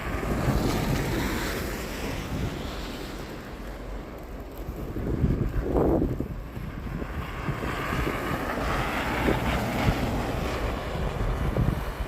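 Storm wind buffeting the microphone, with a steady low rumble. A rushing hiss swells up and fades twice, once at the start and again from about seven seconds in.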